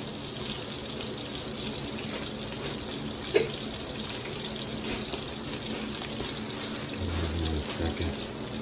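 Steady hiss of water in the kitchen, with one light clink about three and a half seconds in.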